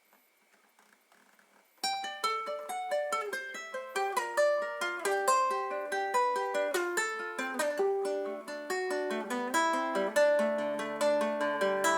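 Near silence for about two seconds, then a fingerpicked plucked string instrument starts a song's instrumental intro, quick picked notes several a second, with lower bass notes joining near the end.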